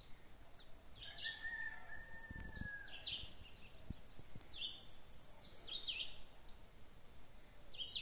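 Several birds chirping and calling at once, short high notes overlapping, with one longer whistled note about a second in.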